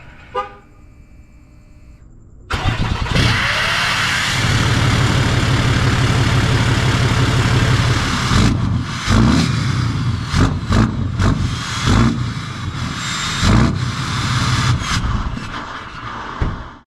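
Straight-piped dually pickup truck's engine starting suddenly about two and a half seconds in, running loudly, then revved in a series of short blips in the second half.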